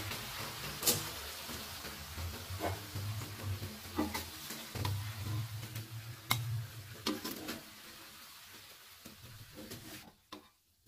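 Chicken and potatoes sizzling in a wok while a metal spatula scrapes and clicks against the pan, scooping the food into a bowl. The sizzle fades and drops away near the end.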